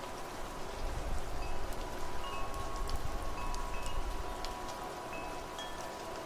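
Wind chimes ringing with scattered high notes over the steady hiss of rain. A low rumble, like wind, swells from about one to four seconds in.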